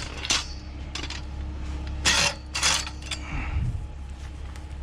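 A few short clinks and rattles of an object being handled, the loudest pair about halfway through, over a steady low hum.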